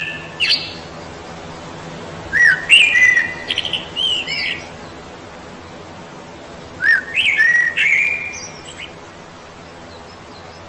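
A songbird singing short phrases of clear whistled notes that glide up and down, three phrases a few seconds apart.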